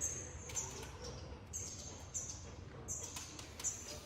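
Truck assembly-line noise: short high-pitched squeaks recurring about every half second, with scattered clicks over a low steady hum.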